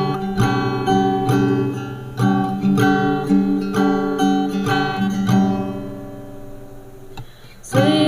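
Acoustic guitar strumming chords in a song's instrumental intro, each chord struck and left to ring. Near the end the chords fade down, then a fresh strum comes in just before the close.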